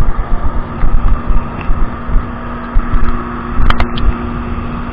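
Kawasaki 1200 jet ski under way, its engine running at a steady pitch, with wind buffeting the microphone in irregular gusts. A couple of sharp clicks come near the end.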